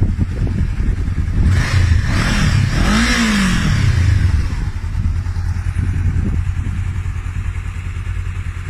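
Honda CB500F's parallel-twin engine idling, with one throttle blip about a second and a half in: the pitch rises, peaks around three seconds and falls back to idle by about four and a half seconds.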